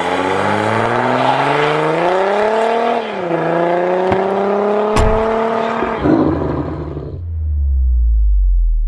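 Intro sound effect of a car engine accelerating: the pitch climbs, dips at a gear change about three seconds in, climbs again and cuts off about six seconds in. A deep bass tone then comes in and slowly slides down.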